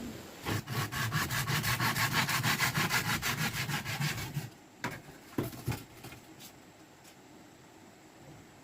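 Hand saw cutting, fast even back-and-forth strokes, about five or six a second, that stop after about four seconds, followed by a few separate knocks.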